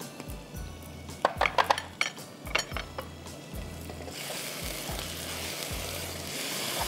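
A few short clinks of kitchen utensils against a frying pan, then tomatoes and powdered spices sizzling in hot oil as they are stirred with a wooden spoon, from about four seconds in.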